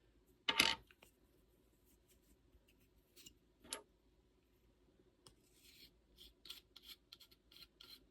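Scattered clicks and light knocks of small metal cornet parts being handled while a valve is taken apart, with one louder clack about half a second in and a run of faint clicks in the last few seconds.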